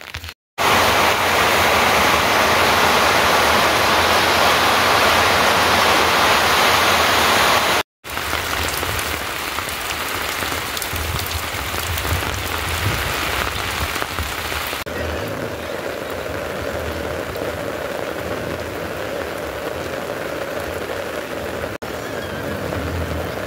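Steady rain falling: a loud, even hiss for about the first seven seconds, then, after a brief break, softer rain for the rest.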